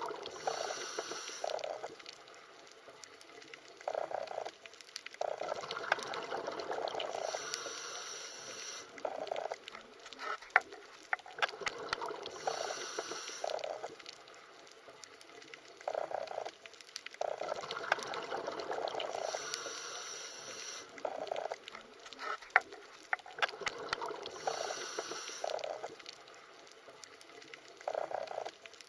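Underwater ambience of bubbling, gurgling water with scattered sharp clicks. The bubbling swells and fades in a cycle that repeats about every six seconds.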